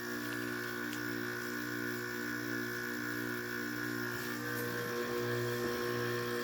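Hampton Bay 5000 BTU window air conditioner running with its compressor and fan on, a steady hum with several steady tones. It does not sound right and is not blowing cold even as it builds pressure; the owner suspects the unit is dead or flat on refrigerant.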